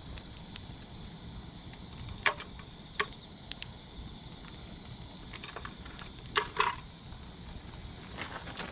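Wood campfire crackling, with a few sharp pops scattered through, over a steady faint high chirring of insects.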